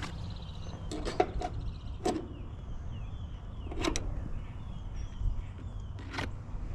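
Scattered sharp clicks and knocks of hands and tools working on an air-conditioning condenser unit that is switched off. Under them is a low rumble of wind on the microphone, with faint bird chirps.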